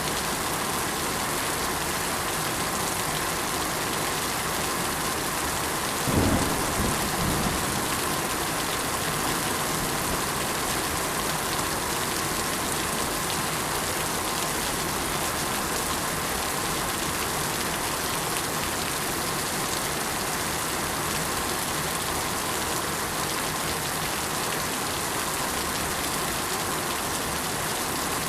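Steady, even rainfall, with a brief low rumble of thunder about six seconds in.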